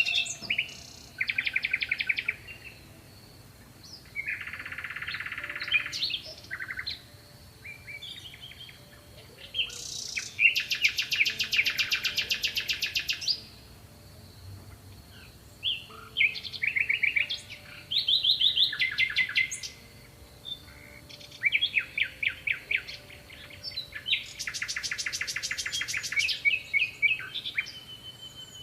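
Small songbirds singing: repeated phrases of rapid trills and short chirps, with brief pauses between phrases.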